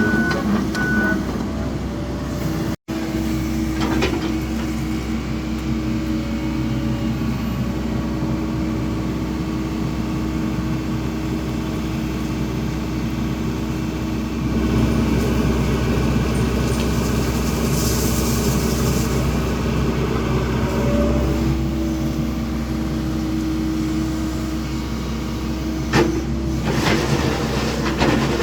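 Excavator diesel engine running at a steady speed, with a few sharp clicks near the end.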